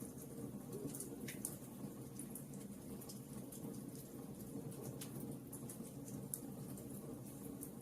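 Wood fire in a fireplace crackling, with frequent small sharp pops over a steady low rumble of the flames.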